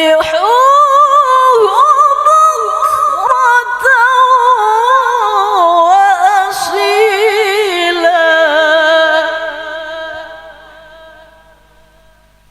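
A woman reciting the Quran in the melodic tilawah style, unaccompanied: one voice drawing out a long ornamented phrase with quick turns and wavering in pitch, which fades away about ten seconds in.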